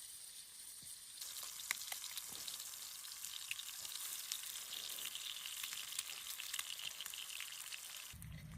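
Steady sizzling hiss with scattered small pops. It grows louder about a second in and cuts off suddenly near the end.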